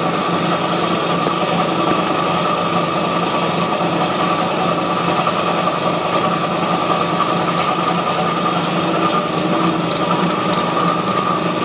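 Air compressor running steadily with a constant hum. From about four seconds in, a ratchet strap clicks in short irregular runs as it is cinched around a truck tire's tread to force the beads out toward the rim.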